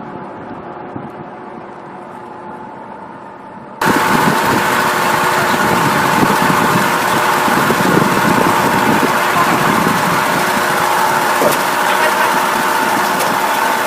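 Heavy vehicle engine running steadily. About four seconds in the sound jumps abruptly much louder and rougher, and the engine running carries on at that level.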